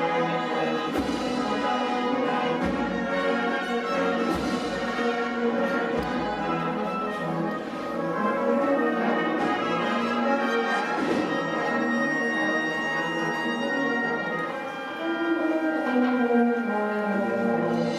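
Processional band of brass with percussion playing a Holy Week march, with a few loud percussion strikes in the first six seconds.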